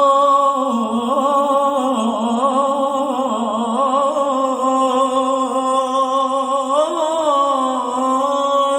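A male singer holds a long, ornamented melisma on one vowel without clear words, the pitch wavering and turning in small runs in Arabic style. It ends on a steadier held note.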